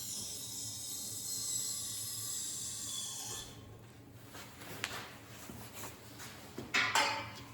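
A steady high hiss for about three and a half seconds, then a few light knocks and clicks near the end.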